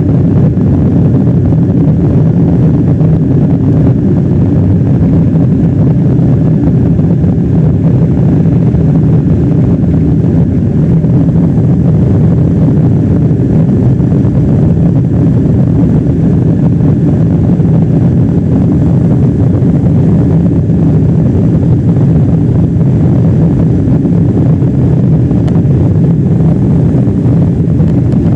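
Boeing 777-200 jet engines heard from inside the passenger cabin: a loud, steady, low rumble, typical of the takeoff run or climb.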